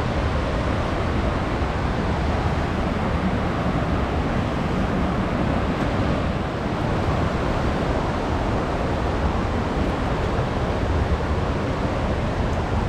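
Steady rush of a waterfall, a constant roar of falling water.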